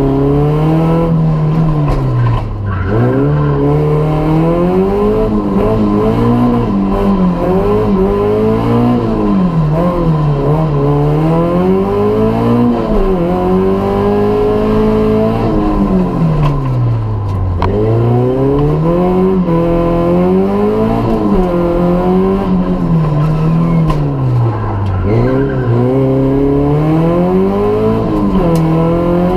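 Race car engine heard from inside the cabin, revving hard and falling away again every few seconds as the car accelerates, brakes and shifts gears through a slalom.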